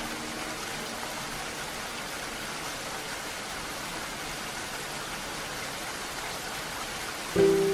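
Steady rainfall hiss. Just before the end a new sustained melody note comes in over the rain.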